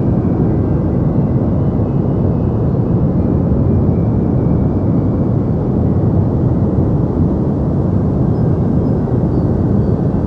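Deep white noise: a steady, even rushing that never changes, weighted toward the low end with little in the highs.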